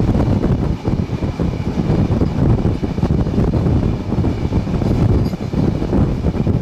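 Passenger train of PT INKA-built coaches running at speed, with a steady, dense low rumble of wheels on the track.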